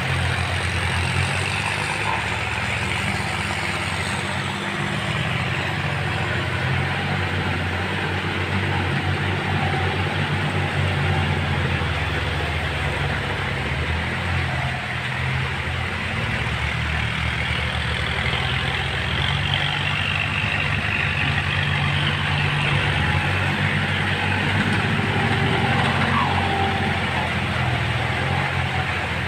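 Kubota tractor's diesel engine running steadily under load while rotary-tilling a wet rice paddy.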